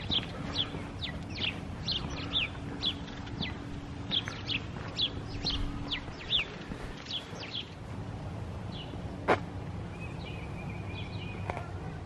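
A small bird chirping: a quick run of short downward-sliding chirps, about two a second, thinning out after about seven seconds. A low steady hum lies under the first half, and a single sharp click sounds about nine seconds in.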